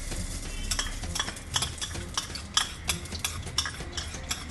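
Oil and ghee heating together in a pressure cooker over a medium flame: a light sizzle with irregular sharp clicks, two or three a second.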